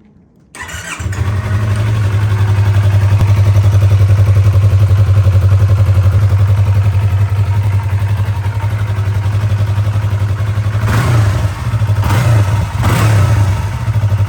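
2022 Yamaha R3 parallel-twin engine through a Yoshimura Race AT2 full-system exhaust: it starts up about half a second in and settles into a steady idle, then is revved in three quick throttle blips near the end.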